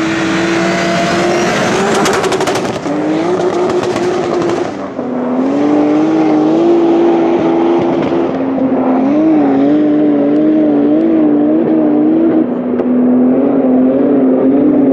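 A turbocharged BMW M5 E34 with its S38 straight-six and a Bugatti Veyron 16.4 running flat out side by side. Their engine notes climb and drop back at each gear change.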